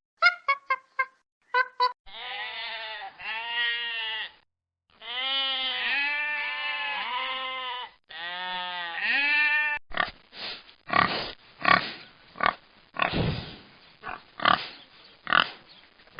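A run of farm animal calls. First come a few short pitched calls, then several long calls that rise and fall in pitch, and from about two-thirds of the way in a pig grunting repeatedly in short, rough grunts.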